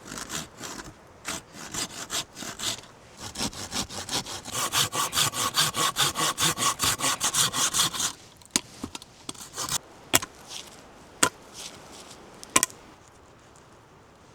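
Hand saw cutting through wood in quick, even strokes, about four a second, speeding up before stopping. Then four sharp knocks of wood.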